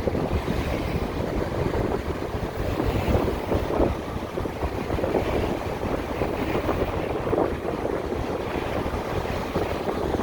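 Wind buffeting the microphone on a moving motorcycle: a steady, fluttering rush of air with road noise underneath.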